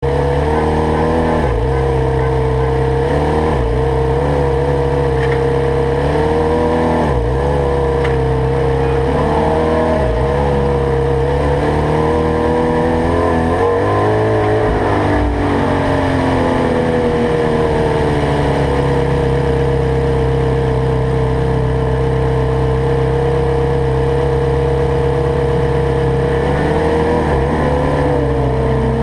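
Ferrari 430 Scuderia's V8 engine at high revs under hard acceleration. The pitch dips briefly about every two seconds during the first ten seconds, falls and climbs again around the middle, then holds steady and high for a long stretch.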